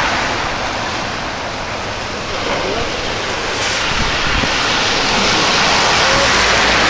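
Heavy rain pouring down, a dense steady hiss that eases a little about a second in and builds again after a couple of seconds.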